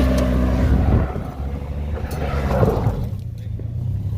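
Vehicle engine revving hard as the vehicle tries to drive out of snow it is stuck in, easing off about a second in and settling to a lower steady run near the end.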